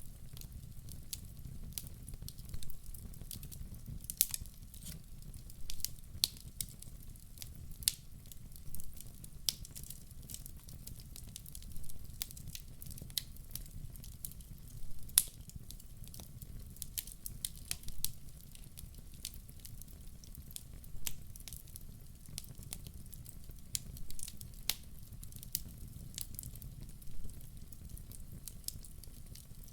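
Log fire burning, with irregular sharp crackles and pops from the burning wood over a steady low rumble of the flames.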